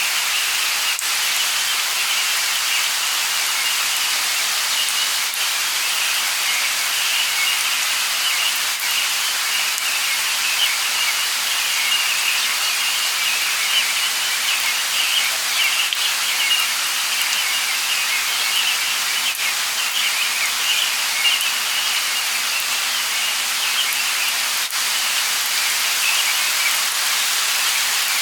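Steady light rain falling, with a continuous high twittering of birds mixed in.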